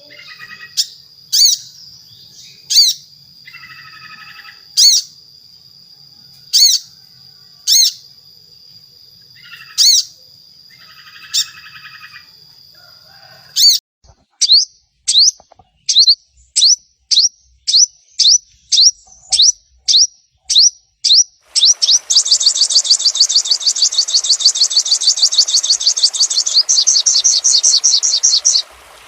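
Sogon (sunbird) calls. Sharp single high chips come every second or two over a steady high whine. About halfway through they speed up into a fast series, and for the last several seconds they become a loud rapid trill with a hiss behind it.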